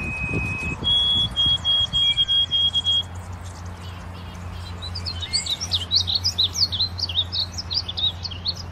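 Birds calling in trees: a single held whistle, then a run of quick repeated high notes, then about five seconds in a burst of rapid twittering chirps. A steady low hum runs underneath.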